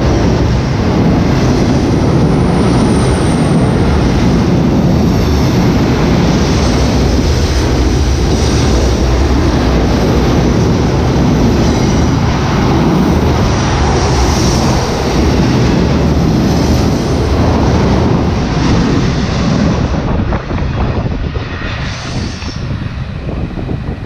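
Florida East Coast Railway freight train passing at close range: a loud, steady rumble of wheels on rail. It eases off about twenty seconds in as the end of the train goes by.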